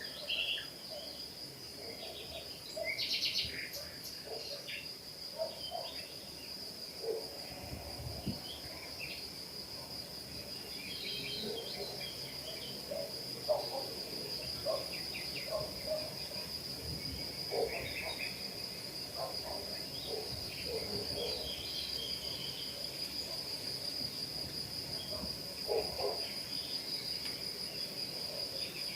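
Outdoor ambience: a steady high-pitched trill throughout, with scattered short bird chirps and calls coming and going.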